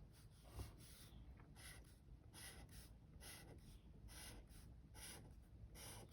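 A pen drawing short strokes on paper, faint, about one stroke a second.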